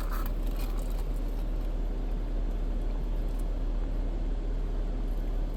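Steady low engine rumble that keeps on evenly, with no distinct events.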